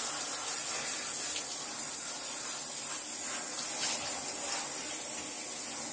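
Shower water spraying in a steady hiss.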